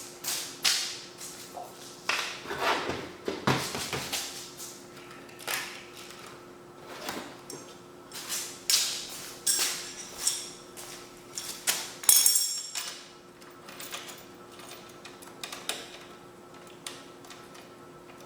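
Hand tools and metal hardware knocking, clicking and scraping irregularly, with one sharp ringing metal clank about twelve seconds in, over a faint steady hum.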